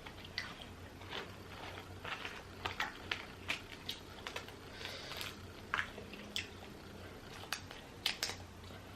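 Close-up sounds of seafood-boil shellfish being peeled by hand and eaten: irregular small crackles and clicks of shell breaking, with wet squishes and chewing.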